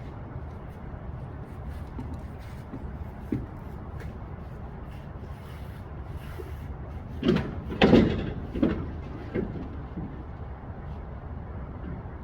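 A short run of knocks and a bang about seven seconds in, over a steady low rumble.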